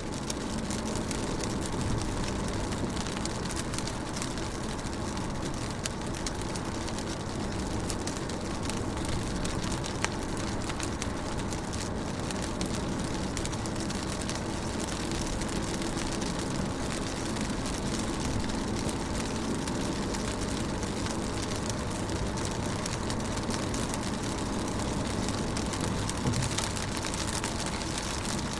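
Steady rain pattering on a car's windows and roof, heard from inside the car: a dense, even patter of drops with a low rumble beneath.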